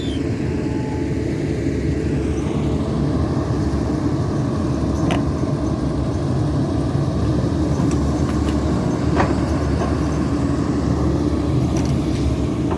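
Diesel engine of a CAT 320D2 hydraulic excavator running steadily at work, a low continuous drone, with two faint ticks about five and nine seconds in.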